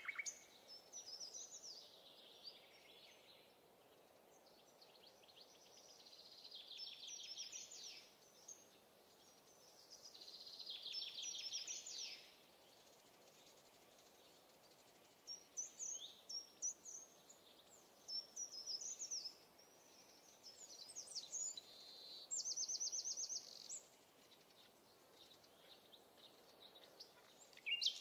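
Wild songbirds singing: short phrases and rapid trills every few seconds, over a faint steady outdoor hiss.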